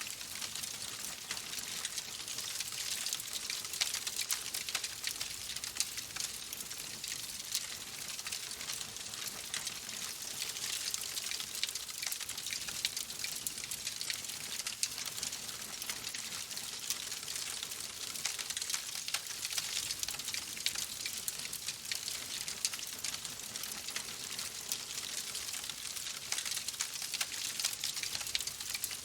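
Wood fire crackling: a steady hiss with many small, sharp pops and snaps.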